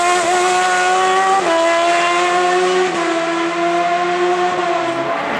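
Hill climb race car engine at high revs under full acceleration. It shifts up twice, the pitch rising slowly in each gear and dropping sharply at each shift.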